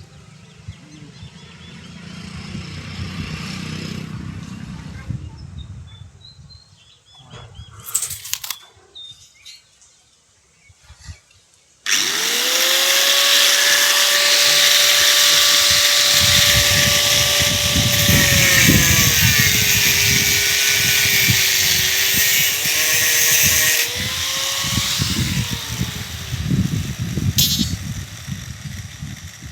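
A power cutting tool spins up suddenly about twelve seconds in and cuts through steel rebar with a loud grinding hiss. Its whine drops in pitch as the blade bites into the bar, rises again as the cut finishes, and runs down near the end. Before that there are quieter handling sounds and a few knocks.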